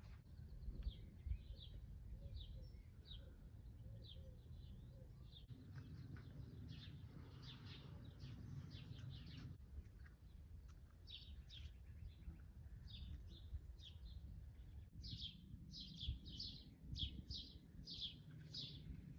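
Faint birds chirping: short repeated high chirps over a low steady hum, coming quicker and a little louder over the last few seconds.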